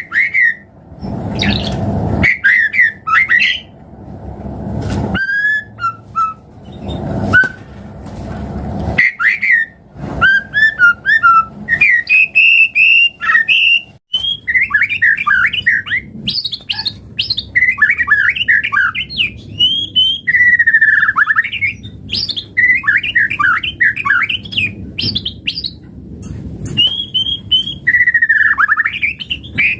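White-rumped shama singing a long, varied song: quick whistled phrases and rapid chattering trills, one after another with short pauses.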